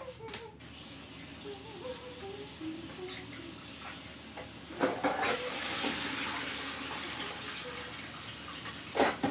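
Kitchen tap turned on about half a second in, water running steadily into the sink, with a couple of knocks partway through.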